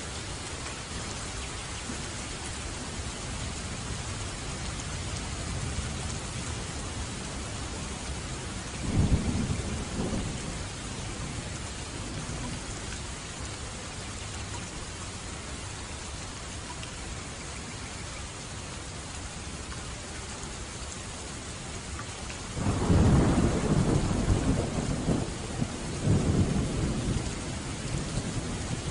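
Steady heavy rain with thunder: a short rumble about nine seconds in, then a louder, longer rolling rumble starting a few seconds before the end.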